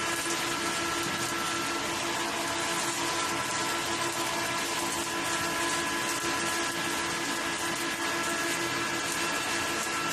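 Welding arc on a 48-inch pipe in the 5G position, a steady frying hiss with a few steady tones running underneath.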